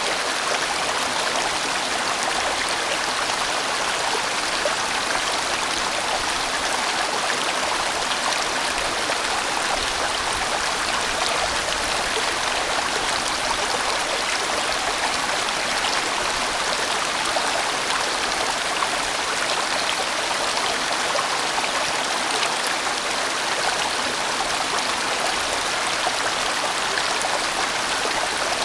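A large valley stream flowing, a steady unbroken rush of water, strongest in the middle and upper range.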